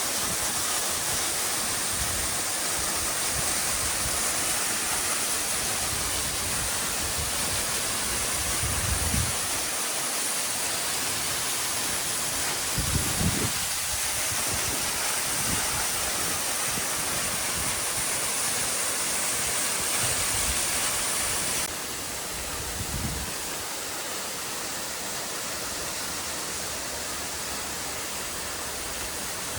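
A mountain waterfall rushing steadily, with water falling and splashing. It drops a little in level about two-thirds of the way through, and a few dull low bumps sit under it.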